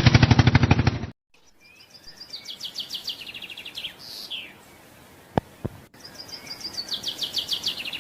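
A loud, fast, even rattle that cuts off abruptly about a second in, followed by a small bird singing: high trills and a few falling notes, the same phrase heard twice with two short clicks between.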